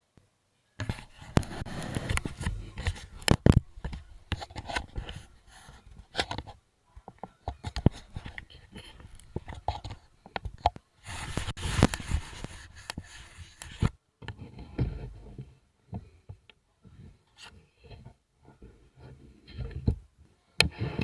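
Irregular knocking, scraping and rustling noises in uneven bursts with short gaps, with no steady engine sound.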